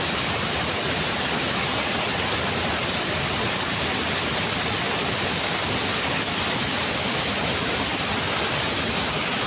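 Steady, unchanging rushing noise spread evenly from low to high pitches.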